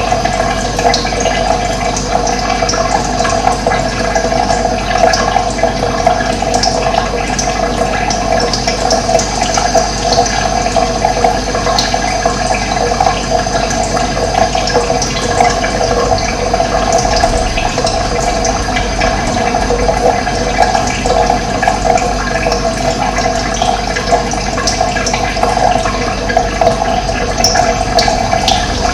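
Running water rushing steadily and without a break.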